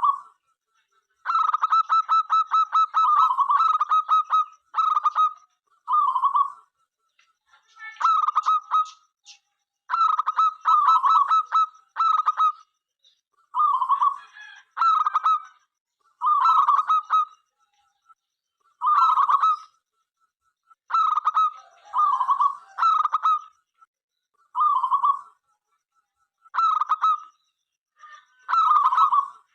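Zebra dove cooing: repeated short phrases of rapid staccato coos, one every one to two seconds, with a longer rattling run of notes about a second in.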